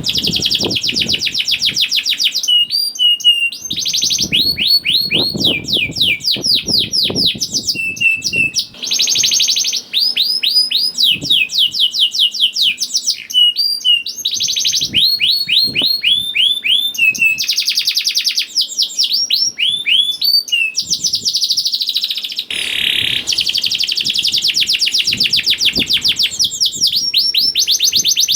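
Domestic canary singing continuously: long runs of rapid repeated notes and rolling trills, phrases changing every second or two, with short pauses between them.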